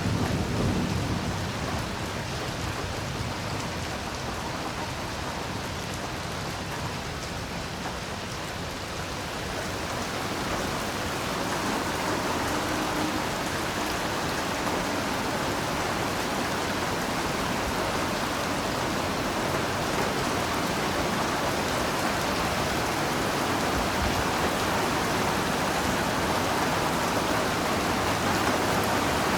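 Heavy rain falling steadily, an even hiss of drops on leaves and ground. A low rumble fades in the first couple of seconds, and the rain grows fuller and louder about ten seconds in, holding there.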